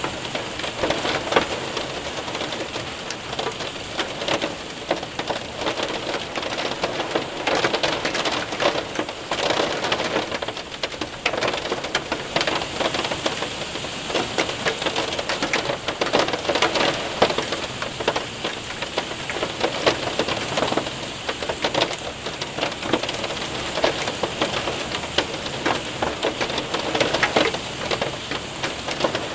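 Heavy rain mixed with hail pattering and ticking on a window and roof, a dense steady hiss peppered with many small sharp impacts.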